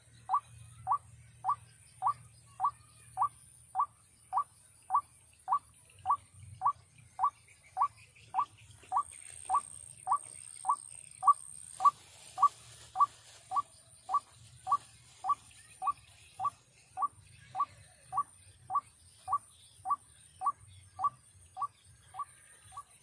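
An animal call: one short, slightly rising note repeated with a very even rhythm, a bit under twice a second. Behind it runs a steady high insect whine.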